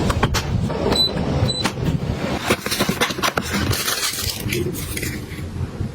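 Containers and packaging being handled and set down: a busy run of small clicks, knocks and rustling, with two short high electronic beeps about a second in.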